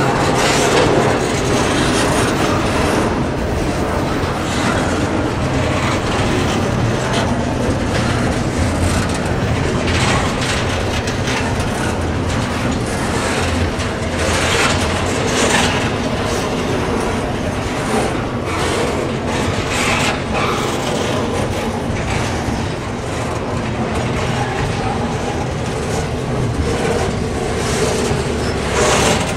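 A train rolling past with a steady rumble and repeated clicking of its wheels over the rail joints.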